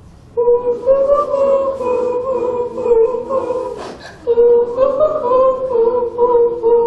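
A woman singing a slow, simple melody unaccompanied, holding long notes that step up and down, with a short break for breath about four seconds in.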